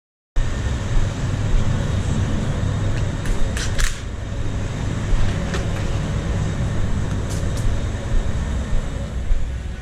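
Loud, steady low mechanical rumble starting abruptly, with a few sharp clicks over it.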